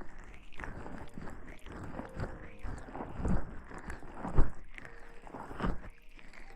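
Close-miked ASMR rustling and crackling, with three louder bumps against the microphone in the second half.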